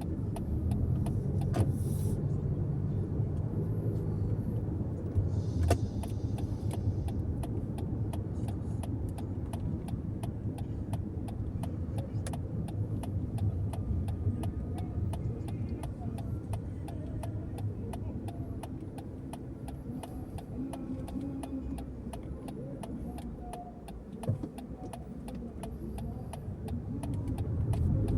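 Car cabin noise while driving: a steady low road and engine rumble, with many faint clicks and a brief drop in level about three-quarters of the way through.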